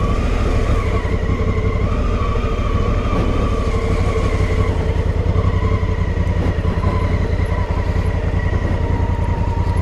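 2018 Honda Africa Twin's 998 cc parallel-twin engine running at a steady pace while the motorcycle is ridden.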